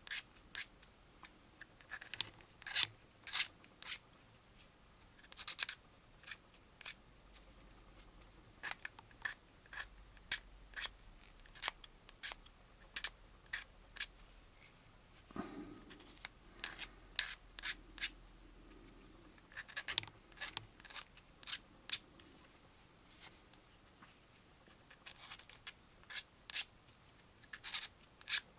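Hobby knife blade scraping along the edge of a small plastic model-kit part in short, irregular strokes, shaving off mould ridges to smooth it.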